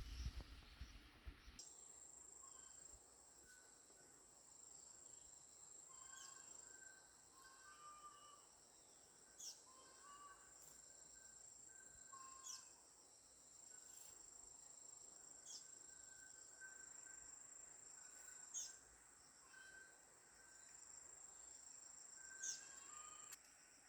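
Faint outdoor insect chorus: a steady, high-pitched cricket-like trill, with short chirping calls and quick falling high notes repeating every second or two. A short burst of rustling noise comes in the first second or so.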